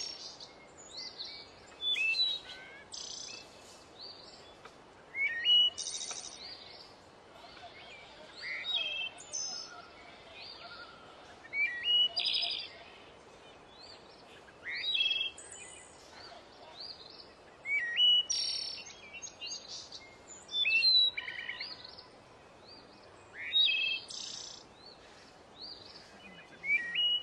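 A songbird singing short phrases of quick, sliding whistled notes, one phrase about every three seconds, over a faint steady background hiss.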